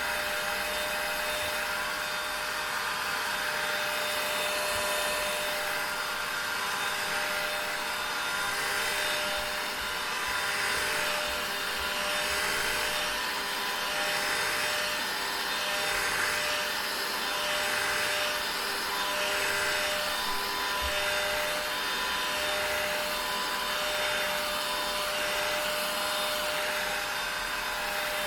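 Vacuum cleaner running continuously: a steady rushing hiss with a constant motor whine through it, swelling and easing gently every couple of seconds.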